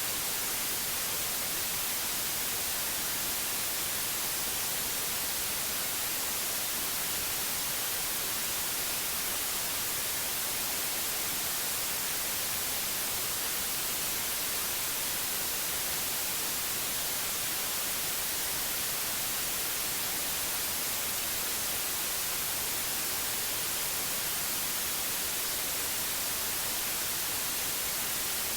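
Steady white noise: an even, unbroken hiss, brightest in the treble, with no change in level or texture.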